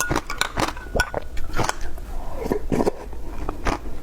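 Ice being bitten and chewed, an irregular run of crisp crunches several times a second.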